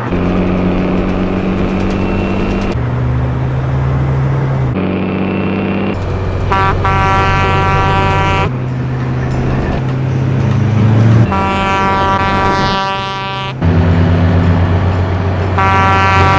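Truck engine running, its pitch changing abruptly every couple of seconds, with three long air horn blasts of about two seconds each: one partway in, one about two-thirds through, and one near the end.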